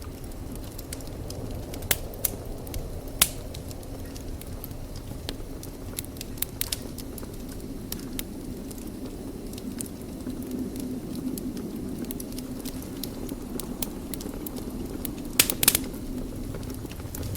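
Wood fire burning in a fireplace: steady low rumble of the flames with scattered sharp crackles and pops, the loudest cluster of pops near the end.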